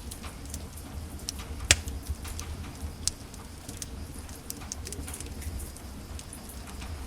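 Wood fire in a fireplace crackling: irregular small snaps and pops over a steady low rumble of the flames, with one loud pop a little under two seconds in and a sharper one about three seconds in.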